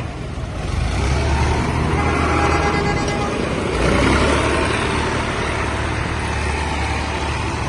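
Tractor engine running, getting louder about a second in and peaking near the middle.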